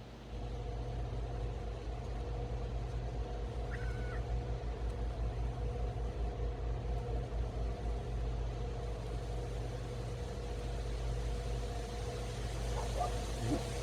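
Steady low rumble with a constant faint hum, and one short bird chirp about four seconds in.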